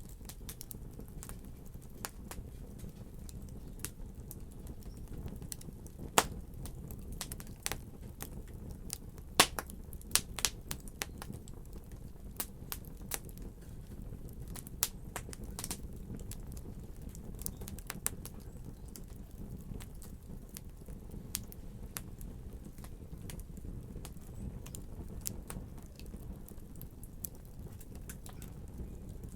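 Wood fire crackling in a fireplace: a steady low rumble of flames under irregular sharp pops and snaps, with a few louder pops about six and nine to ten seconds in.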